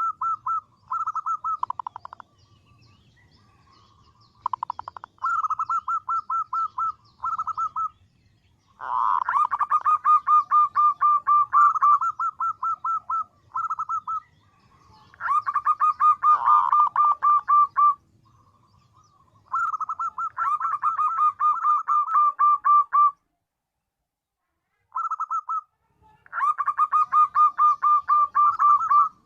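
Female zebra dove (perkutut) calling in repeated runs of rapid short cooing notes, each run lasting about one to four seconds, with brief pauses between them.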